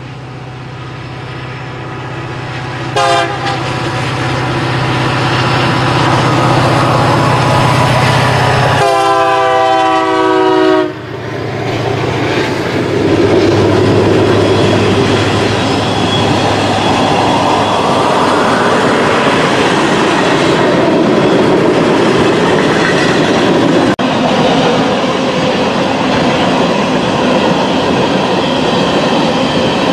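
A single-unit diesel freight locomotive approaches with its engine drone growing louder and sounds its horn: a brief blast about three seconds in, then a longer one of about two seconds from about nine seconds in, falling slightly in pitch as it passes. Then a string of tank cars rolls by with a steady, loud noise of wheels on rail.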